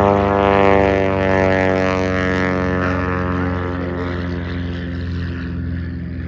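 Propeller airplane just after takeoff, its landing gear retracting, engine running steadily while climbing away; the drone slowly drops in pitch and fades as it moves off.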